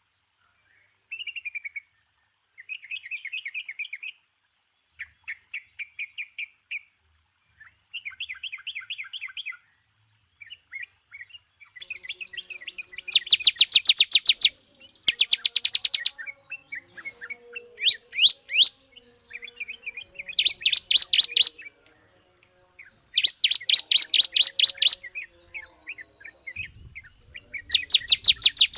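Songbirds singing: phrases of rapid trilled chirps, each a second or so long, repeated with short pauses. About halfway through, louder and higher trills come in.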